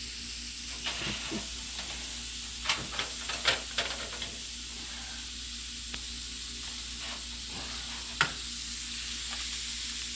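A hot frying pan sizzling steadily on the stove, with a few sharp knocks of a utensil against the pan.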